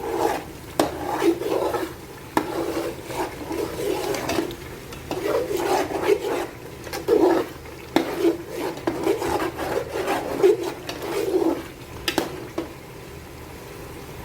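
A spoon stirring and scraping a thick, reduced tomato-and-pepper stew base in a cooking pot, in irregular strokes with a few sharp clicks against the pot. The stirring stops about two seconds before the end.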